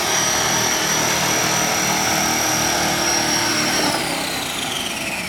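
Small electric motor and rotor of a homemade cardboard RC helicopter running with a steady high whine, then winding down, falling in pitch, about four seconds in.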